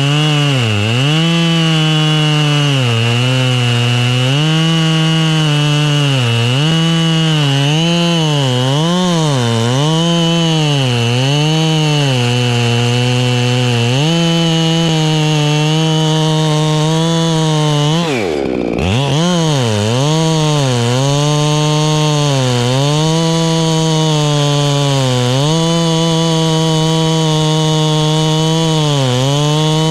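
Echo chainsaw running at high revs through wood, its pitch dipping and recovering every second or so as the chain loads up in the cut. About eighteen seconds in, the revs drop sharply almost to idle, then climb back up.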